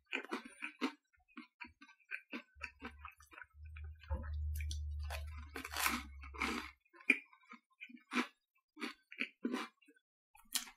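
Close-miked chewing of a crusty baguette sandwich: irregular soft mouth clicks and smacks, a few a second. A low hum runs for about four seconds in the middle, and a sharper tap comes near the end.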